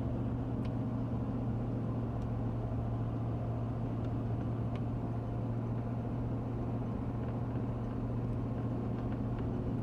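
Steady low drone of a car driving, heard from inside the cabin: engine and road noise at an even level.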